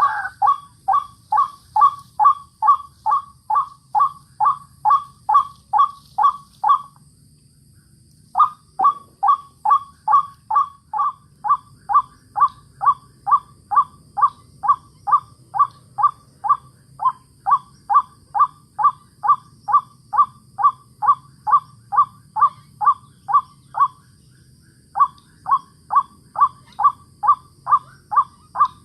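White-breasted waterhen call: a short falling note repeated evenly two to three times a second in long runs, breaking off briefly about a quarter of the way in and again near the end.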